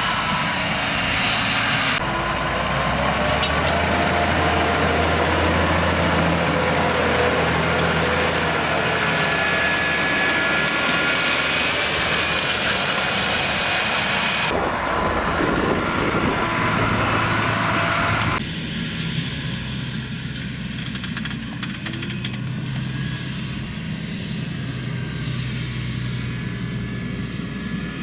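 Farm tractor engines running in the field, the sound changing abruptly a few times, with some rising and falling in engine pitch.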